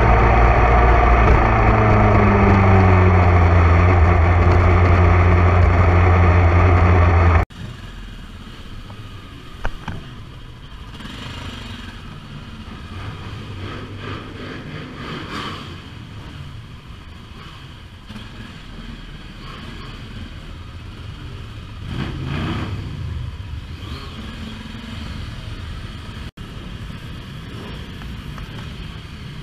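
A motorcycle engine running loud and close, its pitch shifting as the revs change. About seven seconds in it cuts off abruptly to a much quieter stretch of engine and traffic noise, with one vehicle swelling past about two-thirds of the way through.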